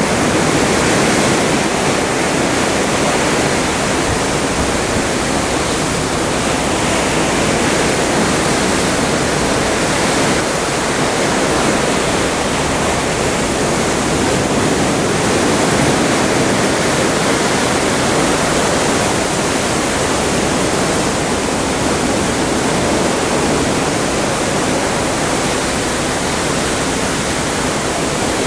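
Atlantic seawater rushing past the hull of a moving cruise ship: a steady, even wash of water with no breaks.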